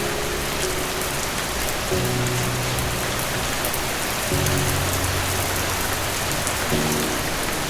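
Steady rain pattering, with soft low music chords underneath that change about every two and a half seconds.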